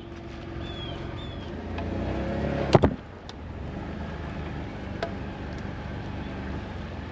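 Jeep Wrangler JK engine running. Its pitch and level rise for about a second, then a sharp double clack comes near the three-second mark, and the engine settles back to a steady run.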